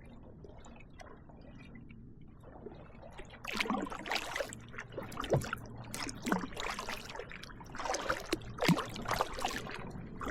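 Kayak paddle strokes: water splashing and dripping off the paddle blades, starting about three seconds in and coming roughly once a second, after a quieter stretch of faint water lapping.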